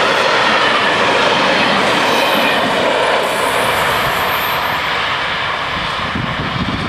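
Freight train wagons rolling over the rails past the crossing, wheels and bogies running on the track, with a thin high wheel squeal a couple of seconds in. The noise eases slowly as the tail of the train moves away.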